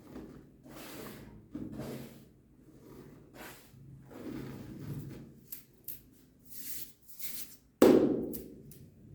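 Powdery paper ashes being crushed and patted: a string of soft crumbling, rubbing swishes, with one sharp, loud thud near the end that fades out.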